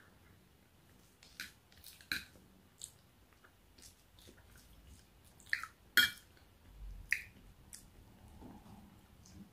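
A person chewing a roast dinner: soft, wet mouth clicks and smacks, a few of them sharp, the sharpest about six seconds in.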